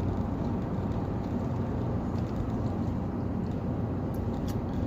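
Steady low rumble of a vehicle being driven on a paved road, heard from inside the cab.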